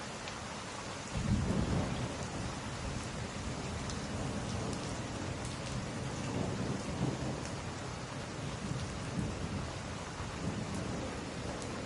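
Steady rain, with a low roll of thunder breaking in about a second in and rumbling on, swelling and easing, through the rest of the stretch.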